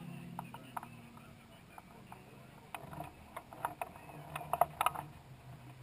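Mallock Mk8B racing car's engine running at a low idle, its pitch dropping slightly just after the start, with scattered sharp clicks and taps that bunch together about three to five seconds in.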